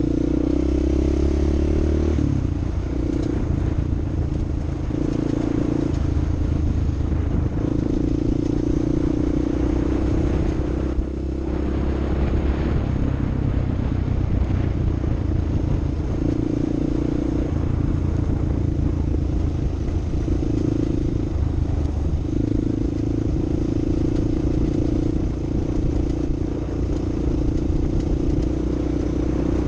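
Off-road vehicle's engine running continuously, its pitch shifting every few seconds as the throttle changes, with rattling and clatter from the ride over rough ground.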